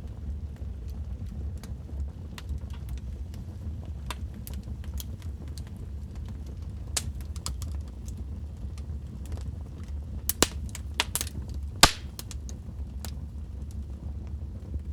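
Wood fire crackling in a fireplace: a steady low rumble of the flames under scattered small clicks, with a cluster of sharper pops about ten to twelve seconds in, the loudest near twelve seconds.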